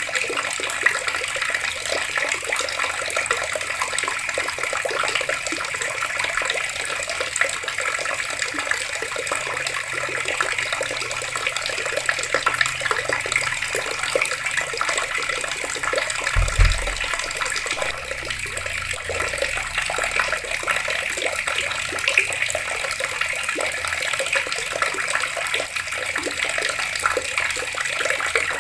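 Water running steadily from taps and splashing. A short low thump comes a little past halfway.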